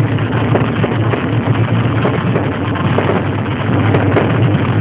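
Fireworks fountains spraying sparks with a loud, steady rushing roar.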